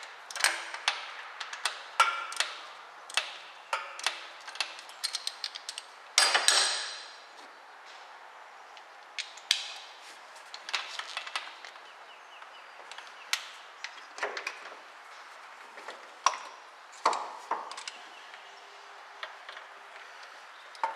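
Hand tools clicking and clinking against metal while the fuel pump bolts on a 1967 Chevrolet Camaro engine are worked loose: irregular sharp clicks and knocks, some with a short metallic ring, and a louder clatter about six seconds in.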